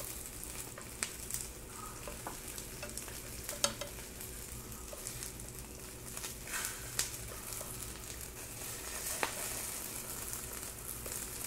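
Egg-battered oysters sizzling in oil in a frying pan, with occasional light clicks of wooden chopsticks against the pan as the pieces are moved.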